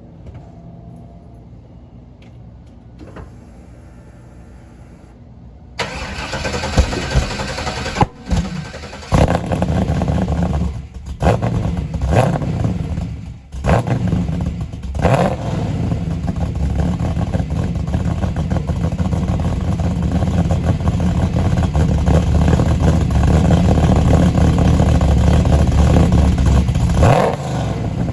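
Camaro Z28's LS1 V8 with a BTR stage 3 cam on a cold start. The starter cranks briefly and the engine catches about six seconds in. The throttle is blipped several times, then the engine settles into a steady idle, with one more rev near the end.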